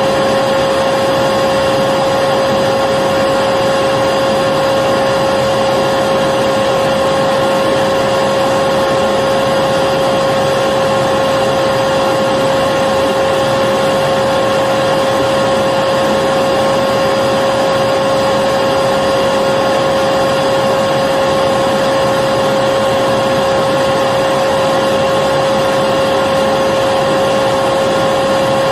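Electric vacuum cleaner running steadily, a constant motor whine over a rush of air, with no change in pitch or level.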